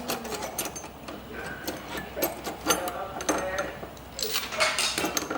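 Irregular series of sharp clicks and taps from dent-repair tools working on a car's steel body panel.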